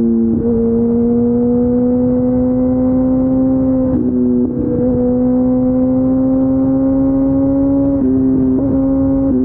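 Kawasaki ZX14R's inline-four engine running under load through an Akrapovic exhaust, its note climbing slowly. It breaks off briefly and picks up again about four and eight seconds in.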